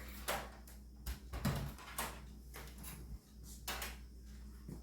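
Handling noises: a series of irregular knocks and rustles, about seven in under five seconds, over a steady low hum.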